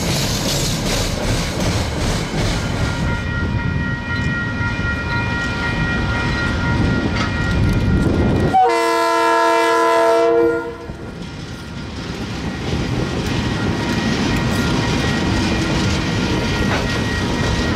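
Container freight train running past: steady rumble and clatter of wagons on the rails. A little past halfway the lead KiwiRail diesel locomotive sounds its horn, one chord for about two seconds, and then the locomotives and container wagons rumble by.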